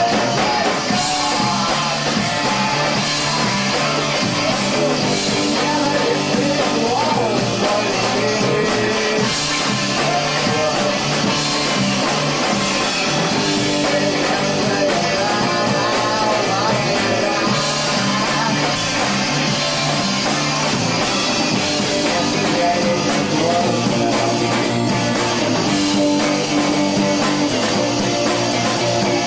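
Rock band playing a song with guitars, at a steady level throughout.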